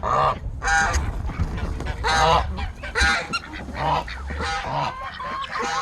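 Domestic geese honking, about half a dozen calls at uneven spacing, with a quick run of short, evenly repeated calls from the flock near the end.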